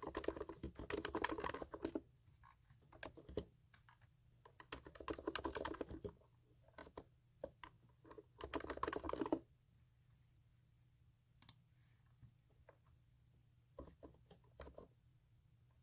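Computer keyboard being typed on close to the microphone, in bursts of rapid key clicks with scattered single keystrokes and short pauses between.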